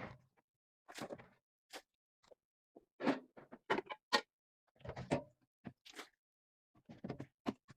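Objects being handled, moved and set down: a string of short knocks, clunks and rattles, about a dozen in several seconds, with complete silence between them.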